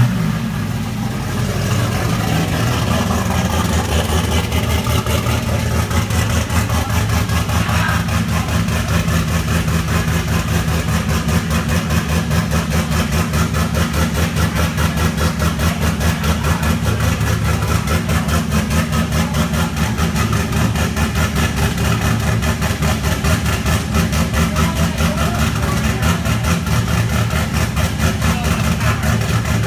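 Turbocharged LS3 6.2 L V8 in a C6 Corvette idling just after its first start-up, running with an even, rhythmic pulse. The engine has a Spin Monster cam.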